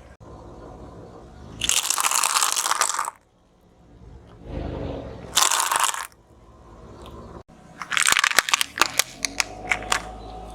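Brittle objects being crushed under a car's tyre: three bursts of crunching and crackling, the last broken into many sharp snaps.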